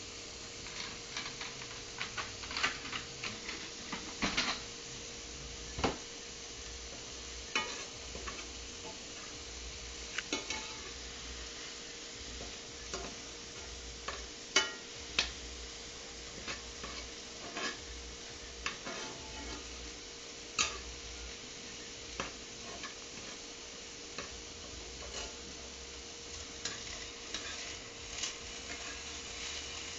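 A utensil stirring spinach in a frying pan, with irregular clinks and scrapes against the pan over a faint steady sizzle.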